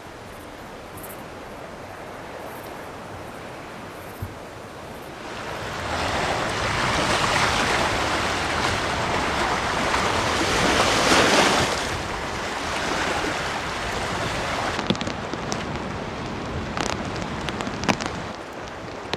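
Rain and wind: a steady rushing that swells about five seconds in and eases after about twelve, with scattered sharp drops landing near the end.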